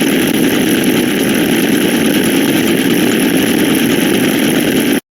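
A loud, dense wall of many overlapping sound effects, heard together as a steady noisy roar. It cuts off abruptly about five seconds in and restarts briefly at the very end.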